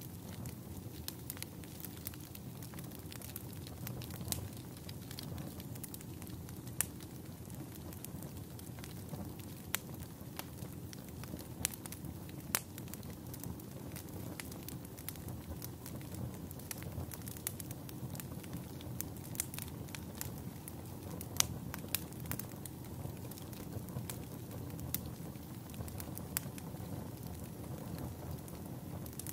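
Campfire burning with a steady low rush and frequent irregular crackles and pops of the burning wood.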